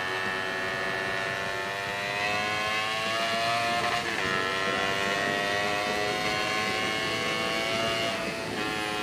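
Honda CBR250RR engine through a custom aftermarket exhaust, revved and held at high rpm. The pitch climbs slowly, dips briefly about four seconds in, climbs again, and falls back a little near the end.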